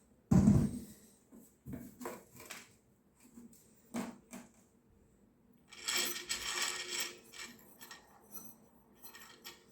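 Small hard parts and tools handled on a work surface: a heavy knock just after the start, scattered clicks and taps, and a longer metallic clatter around the middle.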